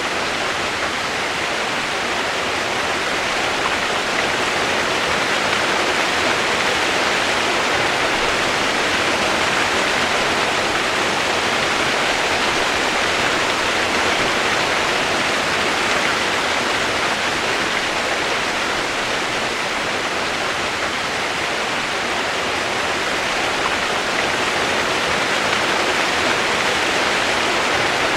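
Rushing water, a steady, even flow with no breaks.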